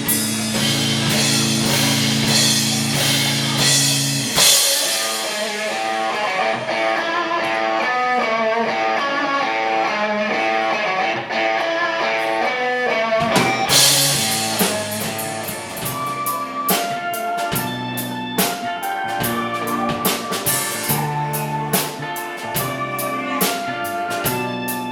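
Live rock band playing an instrumental break: guitar lines over a drum kit, with the arrangement changing about thirteen seconds in.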